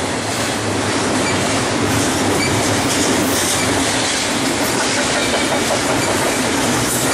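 Double-stack container train of BNSF well cars rolling past close by, a steady, loud noise of steel wheels on the rails and rattling cars.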